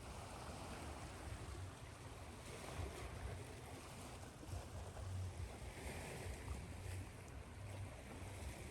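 Ocean waves washing ashore, rising and falling in slow swells over a steady white-noise hiss, with a low rumble underneath.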